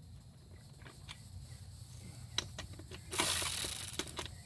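Hand-tool work on running-board mounting bolts: scattered metallic clicks and taps, with a rasping burst of about a second roughly three seconds in, over a steady low rumble.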